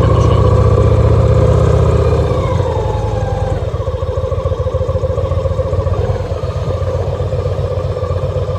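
2014 Victory Cross Country's V-twin engine running, held a little higher for the first couple of seconds, then dropping back to a steady idle.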